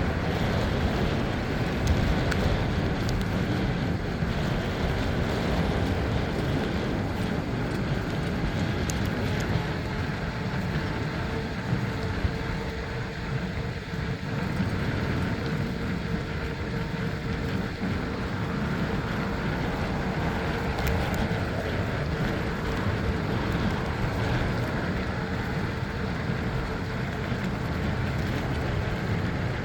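Steady wind rumble on the microphone with rolling road noise while riding a bicycle.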